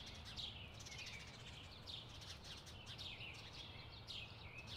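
Faint birdsong: short falling chirps repeated over and over, over a low steady background rumble.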